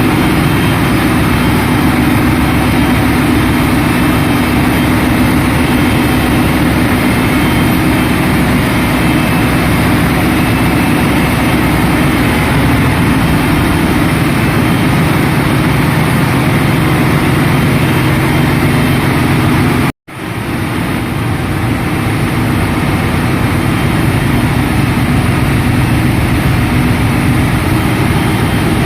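Loud, steady machinery noise of a ship's engine room, with the engines running. The sound cuts out for a moment about twenty seconds in and then comes back.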